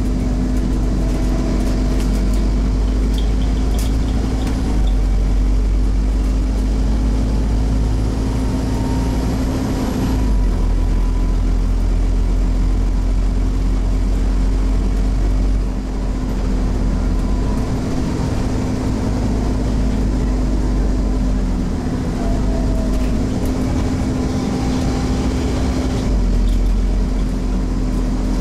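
Scania OmniCity single-deck bus with a five-cylinder diesel running under way, heard from inside the saloon: a steady deep engine rumble and drone, with faint tones gliding up and down as the speed changes and a brief dip in level about halfway through.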